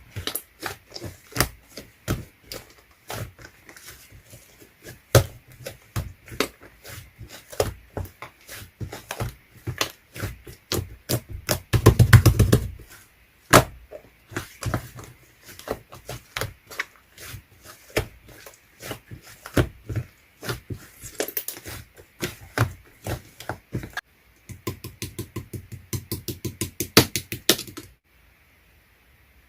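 Close-miked sharp clicks and taps in a quick, irregular series, with a fast flurry about twelve seconds in and another near the end, then stopping suddenly.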